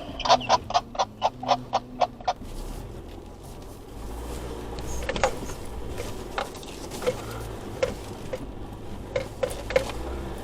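Inside the cab of an Isuzu D-Max V-Cross on a climb: a quick run of about a dozen sharp ticks in the first two seconds, then a low diesel engine drone from about four seconds in, with scattered sharp taps on the body.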